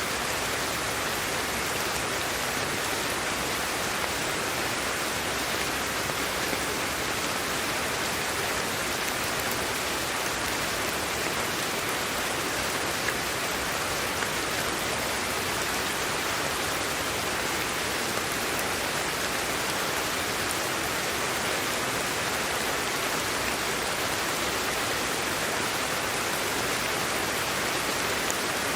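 Steady sleep-aid white noise: an even, unchanging hiss with its weight in the upper-middle range.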